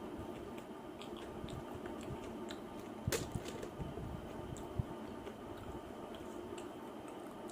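A person chewing and eating mutton curry close to the microphone: soft wet mouth sounds and small clicks, with one sharper click about three seconds in.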